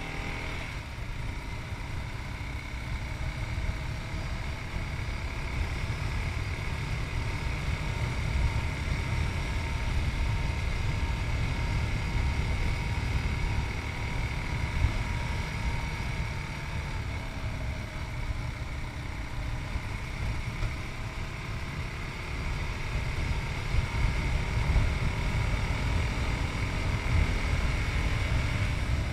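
Yamaha MT-03's 660cc single-cylinder engine running steadily while riding, heard with wind and road noise from a chest-mounted camera, the level swelling and easing a little as the throttle changes.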